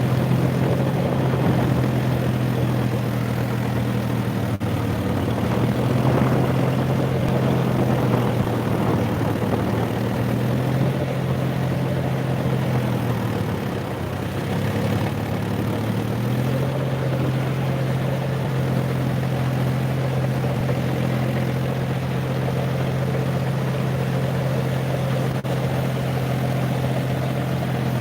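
John Deere 5050D tractor's three-cylinder diesel engine running steadily while driving a 72-blade rotary tiller. Its pitch sags for a few seconds around the middle, then climbs back.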